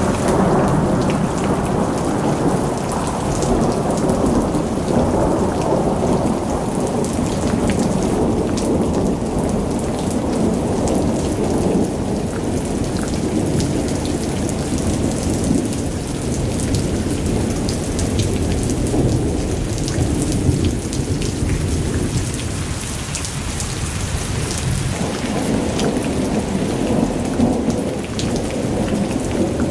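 Thunderstorm: rain falling steadily with a continuous low rumble of rolling thunder beneath it. The rumble eases somewhat past the middle and builds again near the end.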